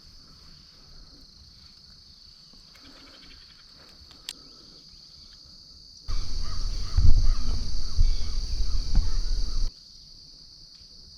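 Steady high-pitched trilling of crickets and other insects in the woods, with faint bird calls. About six seconds in, a loud low rumble starts suddenly and cuts off about three and a half seconds later.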